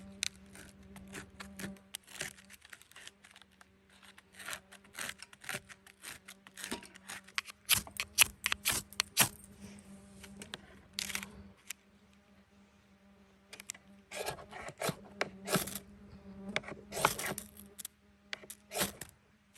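Irregular clicks, scrapes and rustles of camp gear being handled, over a steady low buzz that drops out briefly twice.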